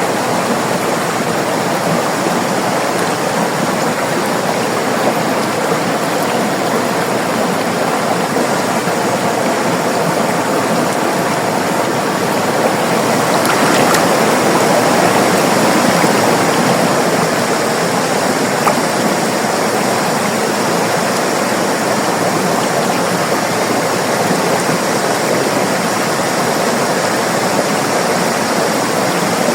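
River water flowing and rushing steadily, swelling slightly a little under halfway through.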